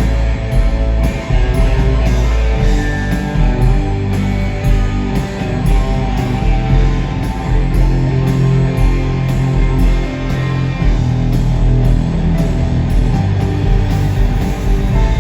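Live rock band playing loudly, electric guitar over bass and drums, in a steady passage with no singing picked out.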